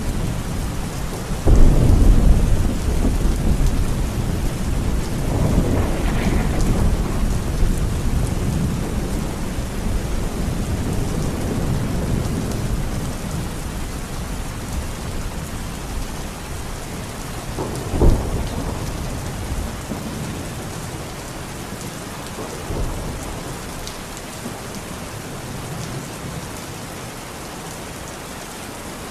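Thunderstorm: steady rain falling, with a sudden loud thunderclap about a second and a half in that rolls on for several seconds, further rumbles, and a sharp short crack of thunder partway through, the storm easing toward the end.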